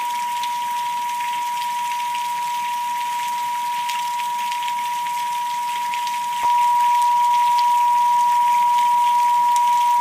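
A steady pure tone just under 1 kHz, the so-called pineal-gland frequency, over a recording of rain with pattering drops. The tone gets louder about six and a half seconds in.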